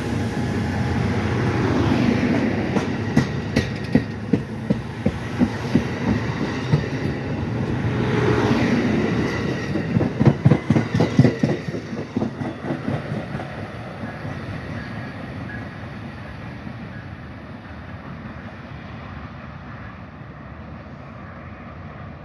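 Amtrak passenger train rolling into the station, its wheels clacking over rail joints: a run of clicks about two a second, then a quicker cluster about ten seconds in. The rumble then fades away steadily.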